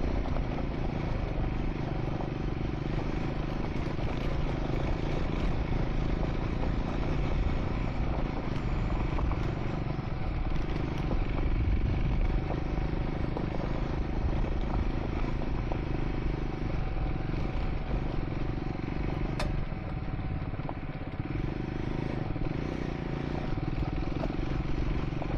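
Triumph Scrambler 400 X's single-cylinder engine running steadily as the motorcycle rides along a dirt track. The engine note dips briefly about 20 seconds in, just after a single sharp click.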